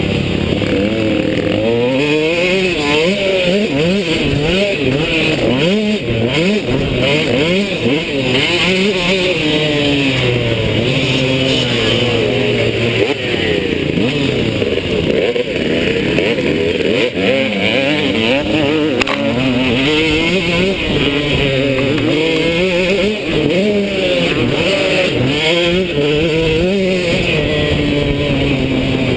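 KTM two-stroke motocross bike engine being ridden hard, its pitch climbing and dropping back over and over, every couple of seconds.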